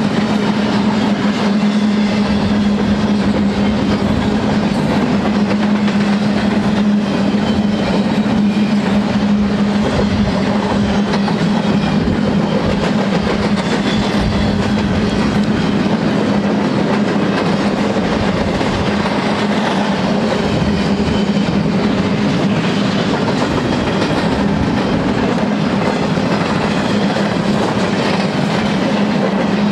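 Empty double-stack intermodal well cars of a freight train rolling past on the rails: a steady, unbroken rumble and rattle of wheels and car bodies, with a constant low hum underneath.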